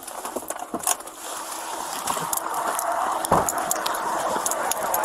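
A vehicle's running noise grows steadily louder, with scattered clicks and rattles and a single heavy thump about three seconds in.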